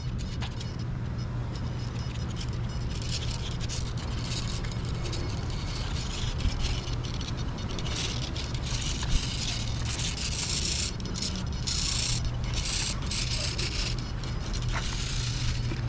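A steady low engine hum under a high hiss that swells and fades several times.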